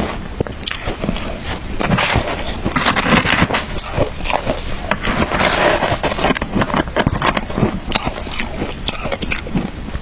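Frozen shaved ice with matcha being bitten and chewed close to the microphone: a dense run of irregular crunches and crackles.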